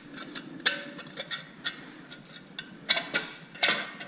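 Irregular sharp metallic clicks and clinks, about half a dozen, as tools and motorcycle exhaust parts are handled.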